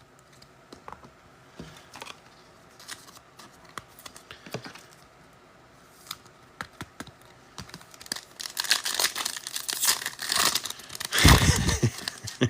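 Light clicks of trading cards being handled, then from about eight seconds in a few seconds of crinkling and tearing as a foil card pack is ripped open, with a dull thump near the end.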